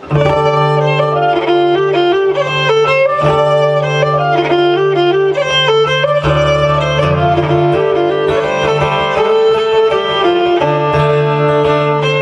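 Folk instrumental introduction: a fiddle plays the tune over a steady low drone, starting abruptly and playing on without singing.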